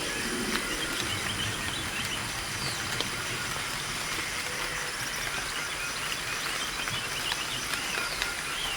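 Forest pond ambience: a steady even hiss, with faint bird chirps scattered throughout.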